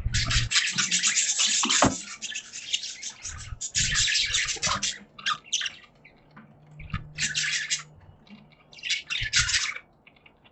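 Budgerigars chattering in rapid, scratchy runs of chirps, coming in several spells with short pauses between, with a few low thumps.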